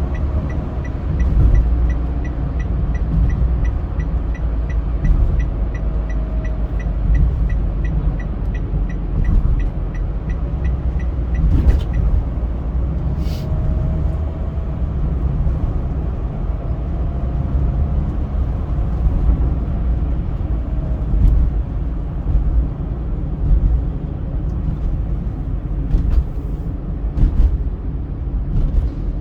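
Steady low rumble of a car driving on a highway, road and engine noise. For about the first twelve seconds it is joined by a fast, even ticking, about three or four ticks a second, with a few sharp clicks later.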